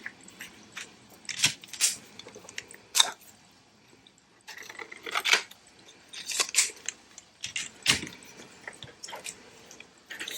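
Irregular crinkling, rustling and light taps of craft materials being handled, such as plastic acetate sheets and paper, with a quieter pause about four seconds in.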